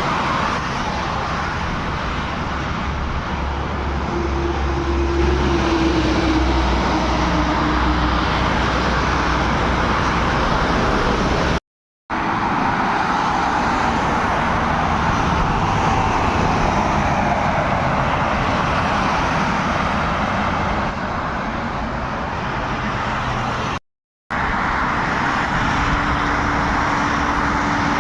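Road traffic with heavy trucks: steady engine and tyre noise, with a low engine drone that swells about 4 to 8 seconds in. The sound breaks off twice into a moment of dead silence.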